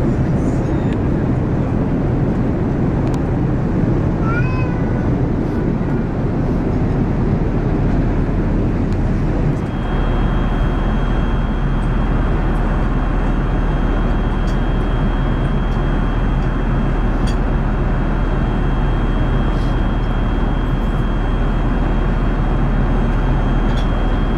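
Steady roar of airflow and engines inside an Airbus A380 cabin in flight. About four seconds in there is a brief rising cry, and about ten seconds in a thin, steady high-pitched tone joins the roar and holds.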